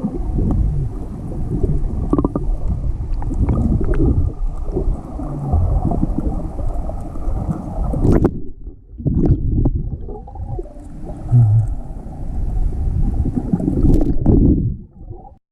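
Low, rumbling noise on the microphone that comes and goes in uneven surges; a faint high hiss stops abruptly about eight seconds in.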